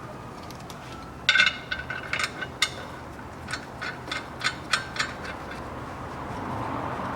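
Ratchet wrench clicking in short runs of sharp metallic clicks, about four a second at the quickest, as the engine's crankshaft is turned by hand to line up the torque converter bolt holes.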